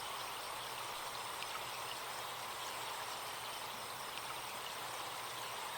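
Forest stream running steadily, with a few faint short bird chirps over it.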